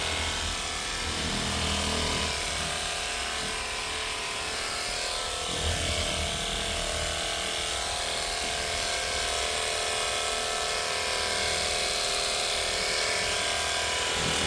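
A steady mechanical whir over a low hum, with several fixed whining tones, unchanging throughout.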